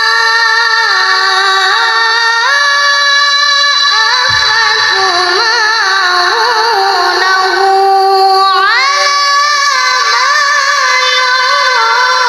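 A child's voice reciting the Quran in melodic tilawah style, drawing out long ornamented notes with wavering turns and sliding sharply upward about eight and a half seconds in.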